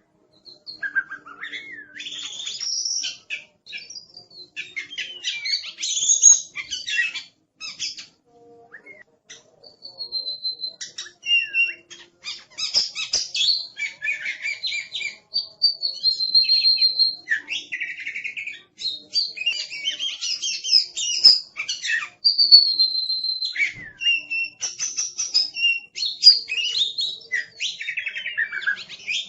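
Oriental magpie-robin (kacer) singing a varied song of clear whistled notes, rapid chattering phrases and sweeping calls, with a short lull about eight seconds in.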